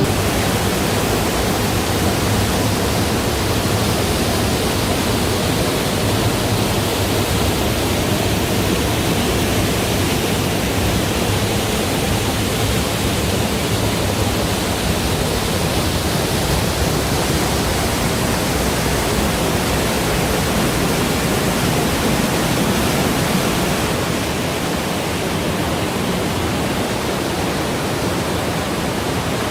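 Steady, loud rush of a mountain valley stream pouring through its cascades, running high after the monsoon rains; it eases slightly about two-thirds of the way through.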